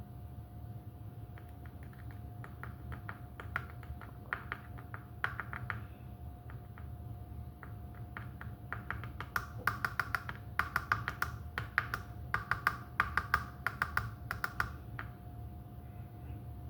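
Rapid light clicks and taps in irregular clusters, thickest in the second half and stopping near the end, over a steady low hum.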